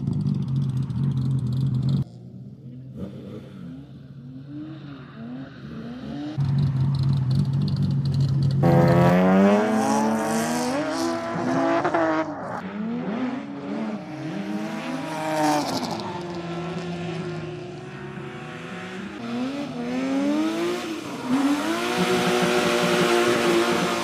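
BMW M5 engine revving up and dropping back again and again under a burnout, with one note held steady for a couple of seconds. The tyres squeal and hiss near the end.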